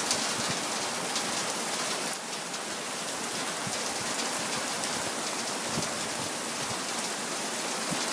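Downpour of rain falling steadily: a dense, even hiss with many individual drops ticking close by.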